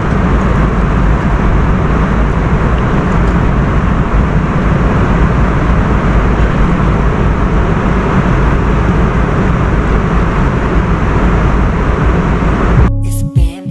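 Steady roar of a jet airliner's cabin in flight: engine and airflow noise with a deep rumble. Near the end it cuts off abruptly and music with a heavy beat comes in.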